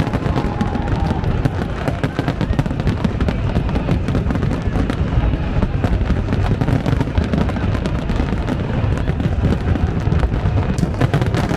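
Fireworks display going off without pause: dense rapid crackling over a continuous low rumble of bursts, with a flurry of sharper cracks near the end.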